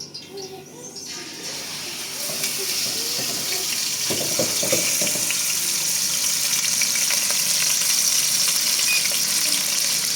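A steady hiss that builds up over the first two seconds, then holds steady.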